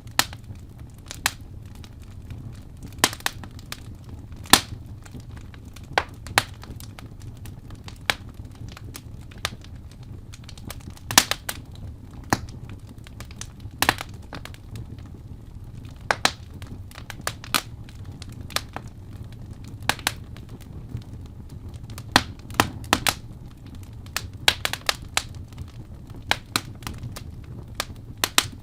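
Wood fire burning in a fireplace, with sharp irregular crackles and pops, often several a few seconds apart, over a low steady rumble.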